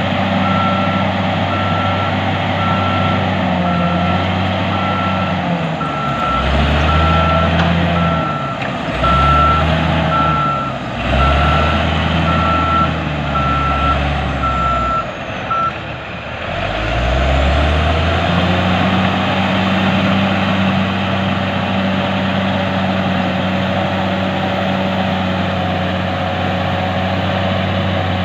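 Heavy diesel earthmoving machine running with its reverse alarm beeping steadily, then the beeping stops about two-thirds of the way through. Midway the engine pitch dips and rises several times, then settles into a steady run.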